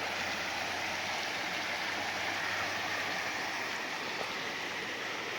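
Small V-shaped waterfall on a stream: a steady rush of falling water.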